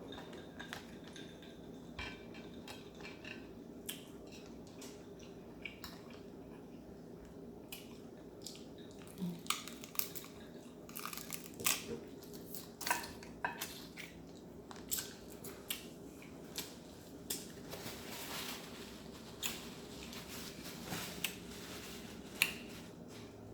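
Crab leg shells being cracked open by hand and eaten: repeated sharp cracks and snaps with crunching and chewing, coming thicker and louder in the second half.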